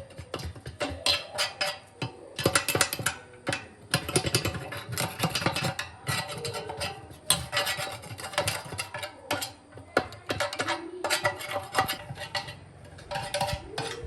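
Metal parts scraped and clinking together in irregular bursts, with short metallic rings, as parts are worked on by hand.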